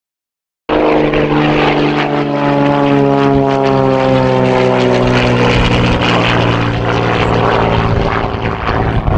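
Xtreme Air XA41 Sbach 300 aerobatic monoplane's piston engine and propeller running loud, cutting in abruptly under a second in, its pitch slowly falling.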